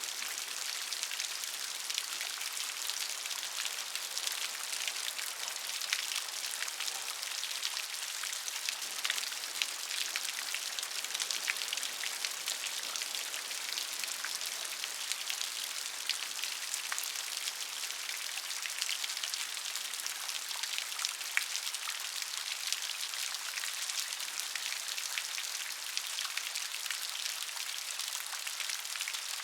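Steady rain, with many individual drops ticking close by against a constant patter.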